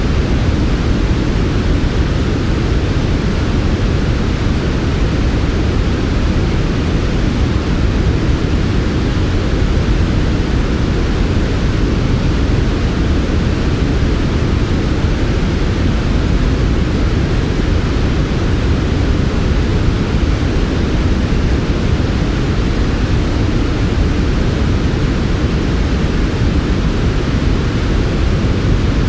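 Steady electronically generated noise for sleep: an even, unchanging hiss weighted toward a deep low rumble, with a softer upper hiss.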